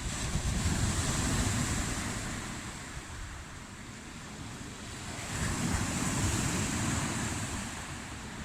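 Sea surf in slightly stormy weather: waves breaking and washing in with a hiss that swells twice, easing off in between. Wind buffets the microphone with a low rumble.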